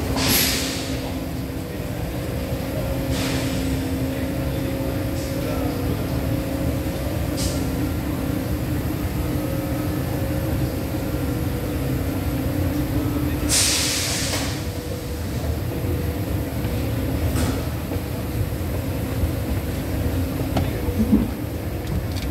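Steady low rumble and hum of Thalys high-speed trains standing at the platform with their systems running. Short hisses of compressed air come over it, the loudest just after the start and about 13 seconds in, with fainter ones in between.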